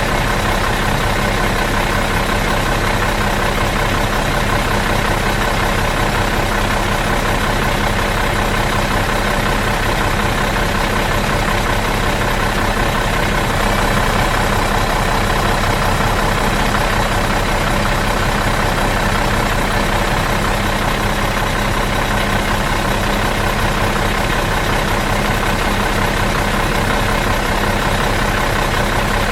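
Bus engine idling in neutral, a steady even hum with a low rumble that does not change.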